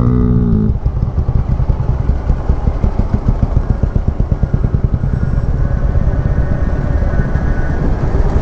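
Royal Enfield Meteor 350's single-cylinder engine running on the move, a low, fast pulsing throb. In the first second a steady droning tone steps down in pitch and stops.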